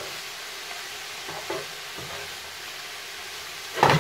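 Prawns and vegetables sizzling in a frying pan as they are stirred with a spatula, with a few light scrapes and a loud clack just before the end.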